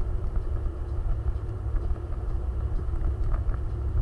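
A vehicle running during an offroad outing: a heavy, uneven low rumble with a faint steady engine tone over it.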